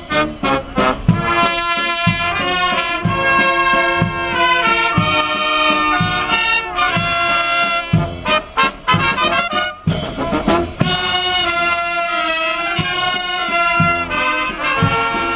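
Brass band music, trumpets and trombones playing a tune over a steady drum beat.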